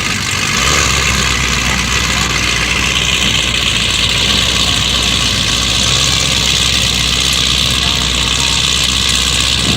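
A car engine idling steadily, loud and close.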